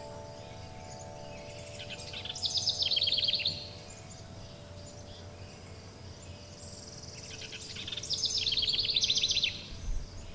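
A songbird sings two rapid trilled phrases, each a quick run of repeated notes dropping in pitch, one about two seconds in and one about seven and a half seconds in. Under the birdsong, the held tones of wind chimes ring on and fade away over a soft steady background hiss.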